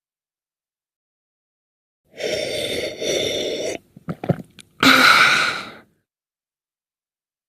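A person's breathy vocal sounds without words: a long breathy sound starting about two seconds in, a few short clicks, then another breathy sound about five seconds in.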